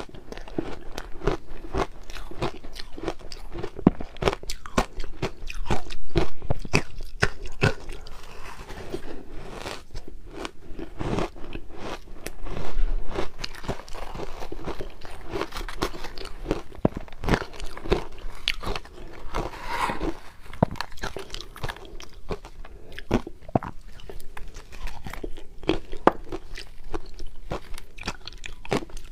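Crushed ice being bitten and chewed close to the microphone: a dense, continuous run of sharp crunches, with louder bites about six seconds in and again near the middle.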